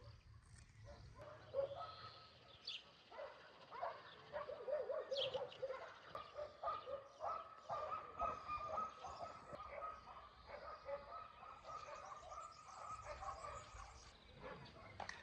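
Animal calls: a dense run of short, repeated pitched calls, busiest from about four seconds in until near the end, with a few sharp high chirps.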